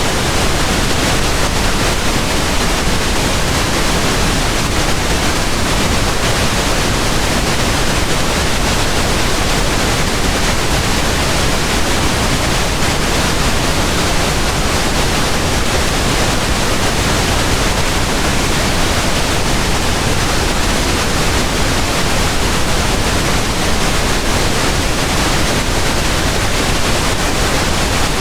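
Steady pink noise: an even, unchanging hiss spread across the whole range from deep to high, like a distant waterfall.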